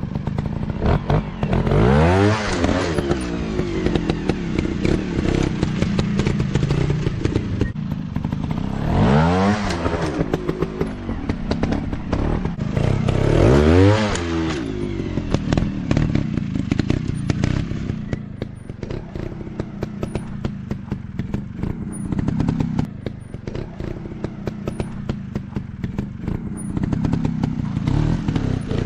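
Dirt bike engines revving, the pitch climbing and dropping three times over a steady run of engine noise, with clattering knocks throughout.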